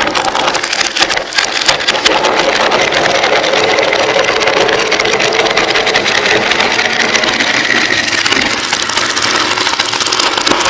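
Many glass marbles rolling and clattering along a marble-run track: a dense, unbroken stream of clicks over a rolling rumble.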